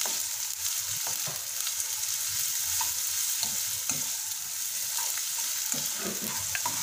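Sliced red onion, garlic and curry leaves sizzling in hot coconut oil in a non-stick wok, with a wooden spatula scraping and knocking against the pan as they are stirred.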